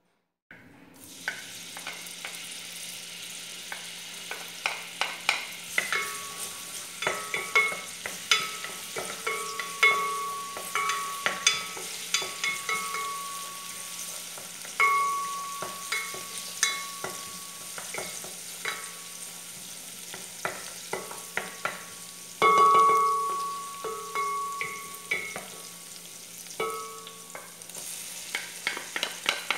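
Garlic and onion sizzling in hot oil in a pot, with a wooden spoon stirring and knocking against the pot many times. A clear ringing tone sounds on and off, and the sizzle jumps louder about two-thirds of the way through.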